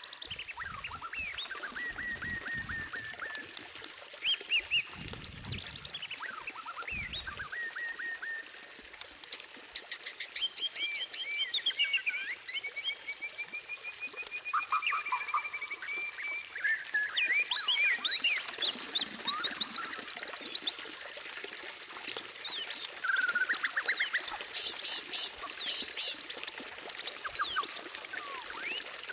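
White-rumped shama (murai batu) singing a varied, unbroken song of clear whistles and pitch slides, broken by bouts of fast, rapidly repeated high notes.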